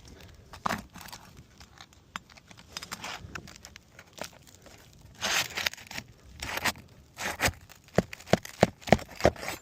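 Asphalt roof shingles being pried loose and torn free of their seal strip: crackling, scraping and tearing, ending in a quick series of sharp snaps and clicks as the tabs break free.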